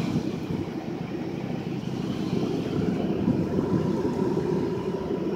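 A Mercury Mountaineer SUV running, a steady low engine hum without breaks or changes in pitch.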